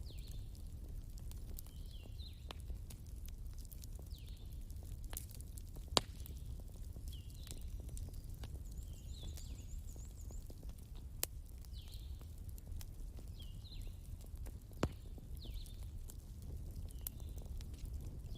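Wood fire crackling, with scattered sharp pops over a low steady rumble; three louder pops stand out about 6, 11 and 15 seconds in. Short high chirping calls from a small animal repeat every second or two through it.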